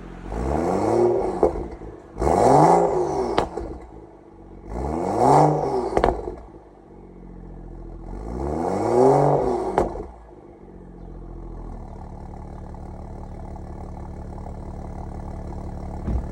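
BMW M235 engine revved in four short blips, each rising and falling in pitch and ending in a sharp crack or click as the revs drop, then settling to a steady idle. The car is being shown for exhaust issues.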